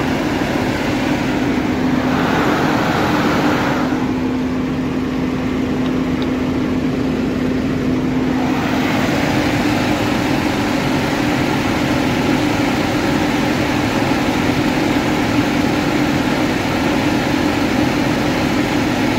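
Car engine idling steadily, heard close up in the open engine bay: an even hum with a constant low tone.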